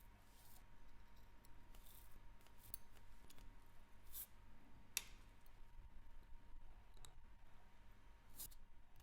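Faint, sparse small clicks and taps of fine watchmaking tools on a wristwatch's small metal parts, with one sharper click about five seconds in.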